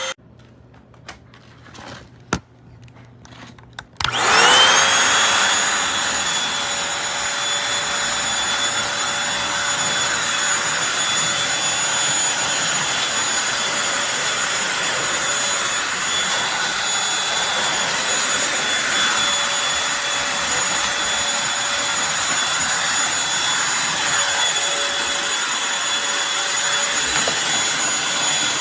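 A few light clicks. Then, about four seconds in, the Eureka Blaze stick vacuum's motor switches on and spins up with a rising whine. It then runs steadily with a high whine over its rushing suction.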